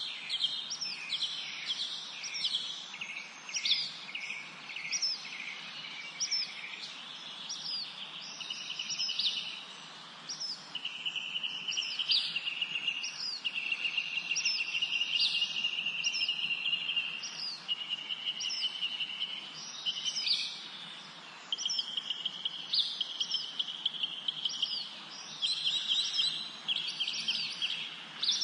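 Several songbirds singing in a spring forest: repeated short high chirps and whistles, with long buzzy trills, the longest running from about 11 to 17 seconds in. A faint steady hiss sits underneath.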